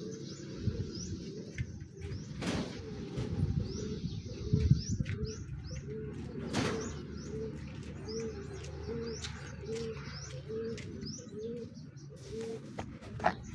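A dove cooing in a steady run of short, evenly spaced notes, with high short chirps from another bird. A few sharp knocks come in between.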